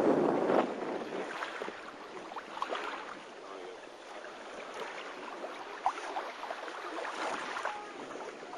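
Wind on the microphone and water moving around a boat, a rushing noise that is louder for the first half-second, then lower and steady, with a few faint short sounds in between.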